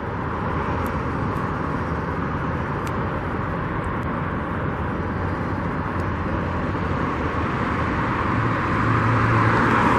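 Steady road traffic noise, swelling a little near the end as a vehicle comes closer.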